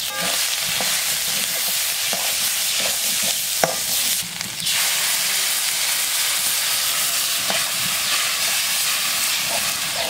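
Chicken and spices sizzling in a hot metal wok, with a spatula scraping and knocking against the pan as the mix is stirred. One sharper knock comes a little past three and a half seconds in.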